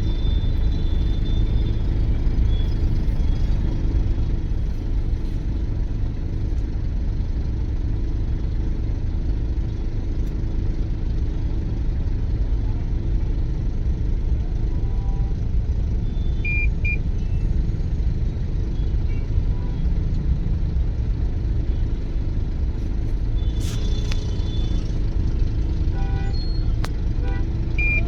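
Steady rumble of road traffic from vehicles stuck in a jam, with a few short high beeps about two-thirds of the way through and again near the end.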